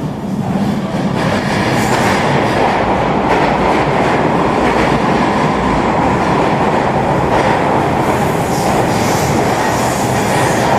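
Eurobahn regional train, a Stadler FLIRT electric multiple unit, running along the track with a steady, loud rolling noise of wheels on rail. The noise grows slightly louder about a second in.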